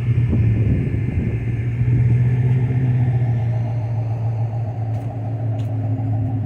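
Steady low rumble of a car engine running at idle, with a faint higher tone joining about three seconds in.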